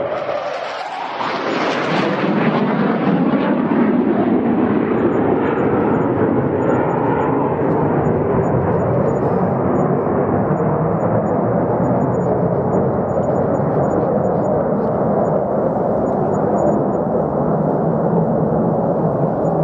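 Fighter jet engine roar. It dips and shifts briefly about a second in, then holds as a loud, steady roar with a deep rumble underneath.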